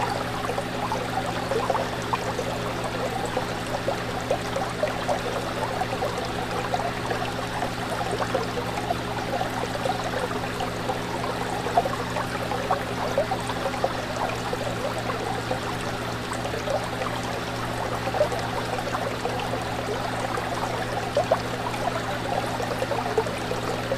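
Fish tank water bubbling and trickling continuously, over a steady low hum.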